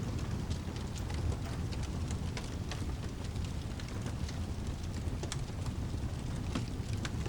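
Layered ambience of a crackling fireplace, with many scattered sharp pops and snaps, over steady rain and a low continuous rumble.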